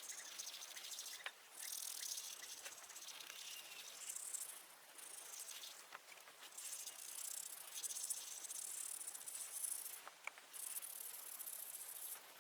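Faint electric arc welding: a high crackling sizzle that comes in uneven spells, with a few sharp clicks and brief breaks in the arc.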